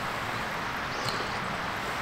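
Mountain stream flowing: a steady rushing of water.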